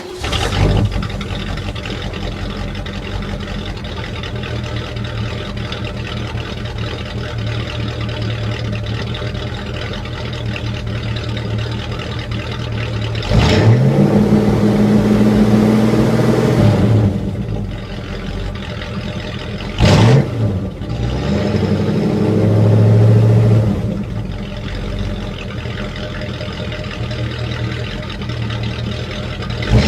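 1967 Mercury Cougar's 289 cu in (4.7 L) V8 firing up on a cold start and settling into a steady idle. It is revved a few times: one held rev about a third of the way in, a quick blip and a gentler rev past the middle, and another rev right at the end.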